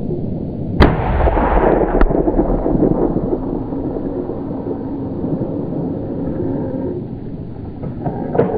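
A hunting rifle shot about a second in, its report rolling away in a long echo, followed by a second shot about a second later; another sharp crack comes near the end, over a steady low rumble.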